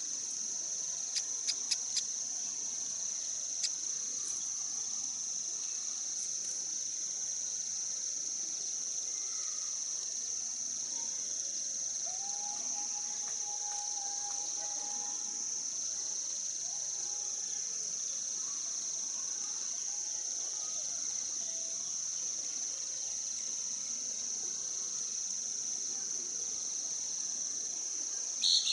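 Insects calling in a continuous, steady high-pitched drone. There are a few sharp clicks in the first couple of seconds and a brief high chirp at the very end.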